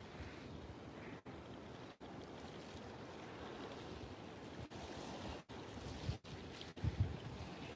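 Steady rush of waves and wind at the shore, with a couple of low wind bumps on the microphone near the end and the sound briefly cutting out several times.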